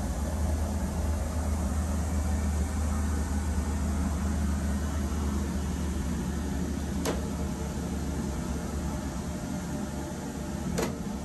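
Steady low rumble of a Hokuriku Shinkansen E7/W7 series train running, heard from inside its enclosed toilet compartment. Two sharp clicks, one about seven seconds in and one near the end.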